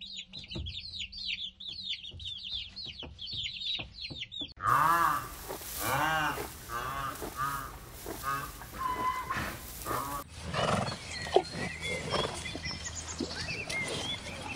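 Baby chicks peeping, a fast run of high, falling cheeps. About four and a half seconds in, this gives way to rhinoceros calls: pitched squeals that rise and fall, repeated about once a second. About ten seconds in comes a different outdoor recording with scattered sounds and one sharp click.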